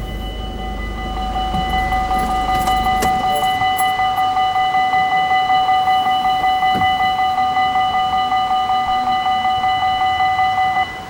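Belgian railway level crossing alarm ringing: a loud electronic tone with several pitches, pulsing fast and evenly, that stops suddenly near the end. A low rumble fades out in the first few seconds.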